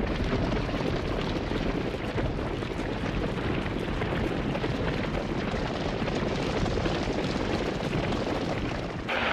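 Steady rumble of a bison herd stampeding, the hooves drumming together into one continuous noise that cuts off sharply near the end.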